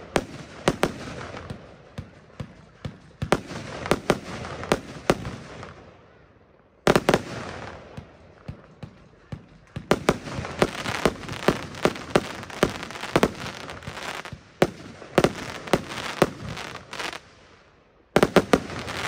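Röder 'Jubelbox' F2 consumer firework battery firing: a rapid string of sharp launch and burst bangs with crackling between them. It pauses briefly twice, about a third of the way in and just before the end, then fires again.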